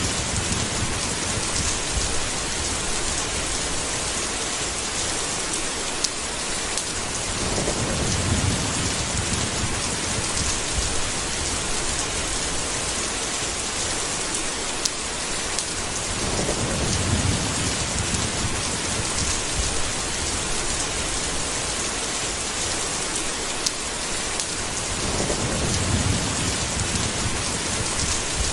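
Steady heavy rain, with low rolls of thunder swelling up about every eight to nine seconds, four in all, and a few sharp single ticks.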